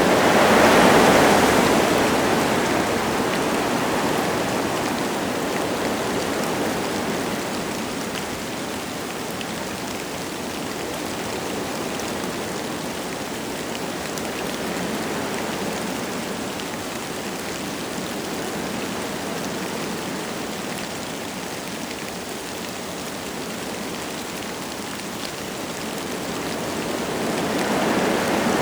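Wind gusting through forest trees, with light rain falling. A strong gust in the first couple of seconds dies down to a steadier rush, and the wind builds again near the end.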